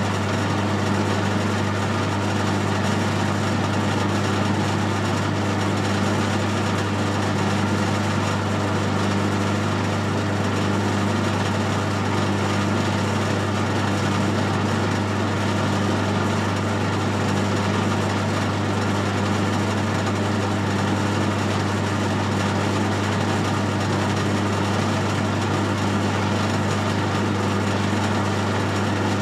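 Metal-turning lathe running at steady speed with a constant motor hum while a parting tool is fed into the spinning workpiece.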